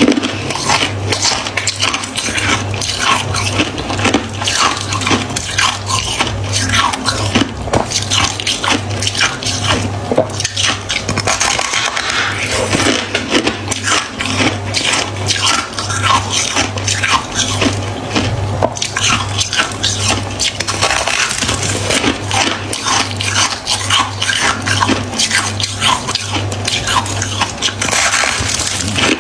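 Freezer frost crunching close to the microphone: a dense, continuous run of crisp crackling crunches, over a low steady hum.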